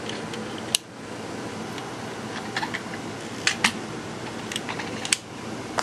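A few light, sharp clicks and taps from handling a small diecast and plastic model truck diorama, spread unevenly over a steady background hiss.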